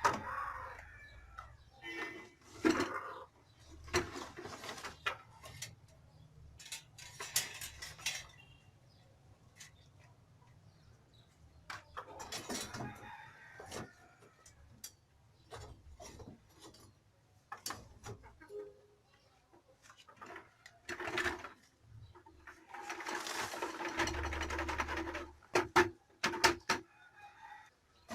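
Chickens clucking, with a sustained call of about two seconds near the end that sounds like a rooster crowing, among scattered knocks and clatter.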